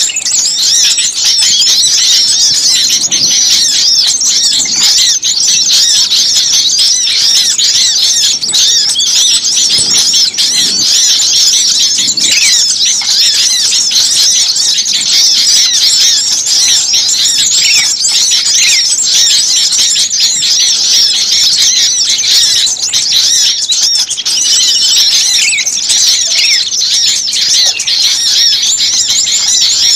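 Dense, noisy chorus of many small songbirds chirping and trilling rapidly without pause, all high-pitched: a bird-lure (pikat) recording of agitated small birds, made to call wild birds in.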